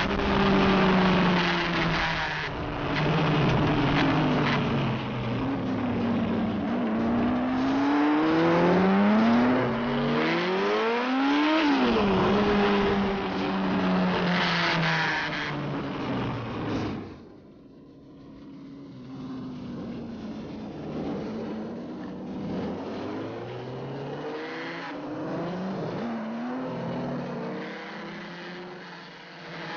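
Sport motorcycle engines running hard, their pitch climbing and falling again and again as they accelerate and shift, under a loud rushing noise. A little past halfway the sound drops suddenly to quieter, lower engine tones that keep rising and falling.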